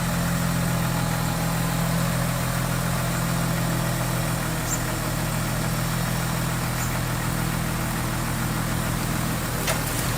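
Diesel engine of heavy construction equipment running steadily at an even speed, with a short click near the end.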